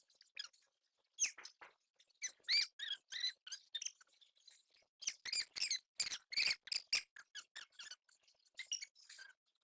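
Runs of short, high-pitched squeaks coming in quick irregular clusters, some sliding up or down in pitch.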